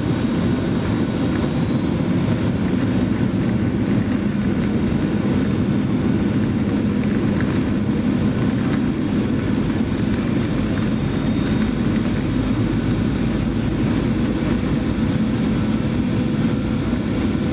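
Steady cabin noise of a Boeing 737-900ER in flight, its CFM56 jet engines and the airflow making an even roar with a low hum. A thin high tone rises slowly throughout.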